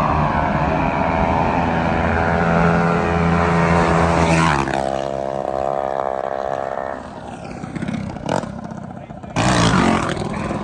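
Small minibike engine running hard at high revs. About four and a half seconds in the pitch drops sharply as it goes past, then the engine fades. A loud rushing burst comes near the end.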